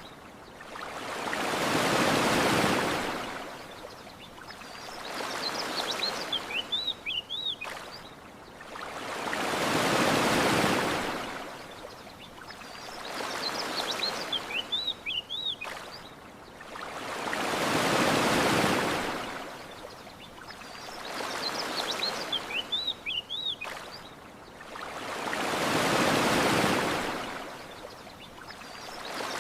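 Ocean waves washing onto a beach in slow swells, a big one about every eight seconds with smaller ones between. Short bursts of bird chirps come in the lulls between the big waves.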